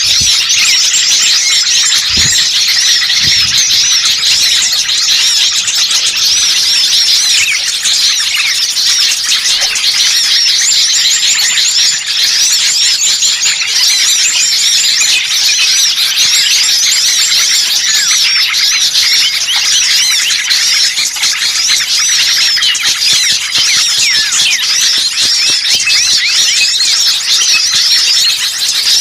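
Dense, loud chorus of many small birds chirping and twittering at once, high-pitched calls overlapping without a break: an agitated, noisy flock of the kind used as a bird-lure call.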